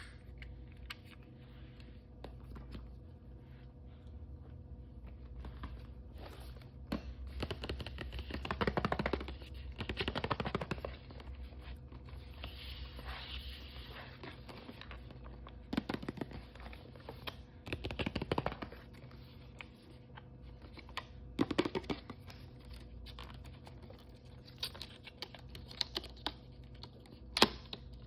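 Hands opening toy blind bags and surprise packaging: many small plastic clicks and taps, with several short bursts of rustling and tearing packaging, the longest about eight to eleven seconds in.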